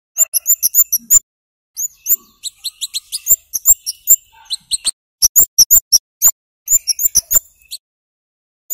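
Scarlet-headed flowerpecker (kemade) giving quick runs of sharp, high-pitched 'cit' calls in three bursts with short breaks between them, then one last note.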